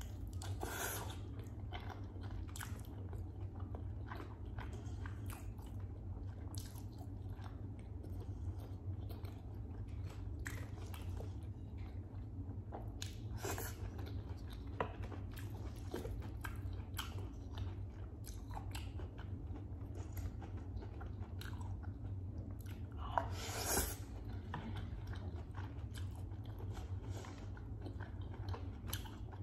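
Close-miked eating of roast chicken: biting and chewing with wet mouth sounds and irregular soft clicks, a few of them louder, the loudest about three quarters of the way through. A steady low hum runs underneath.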